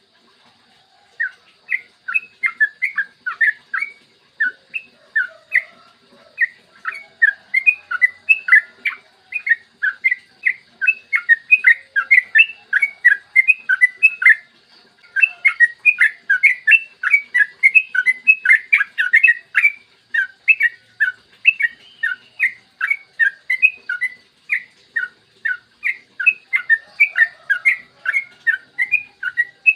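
Yellow-vented bulbul (trucukan) singing a long, rapid run of short bubbly notes, several a second, with brief breaks near the start and about halfway through.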